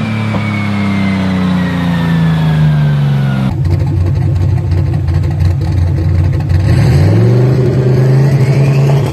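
Tuned car engine and exhaust: the engine note falls for the first three and a half seconds, then turns rough with crackling from the exhaust. About seven seconds in the revs sweep up and hold high.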